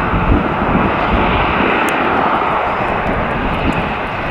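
Jet airliner's turbofan engines, a loud steady rush with a rumbling low end.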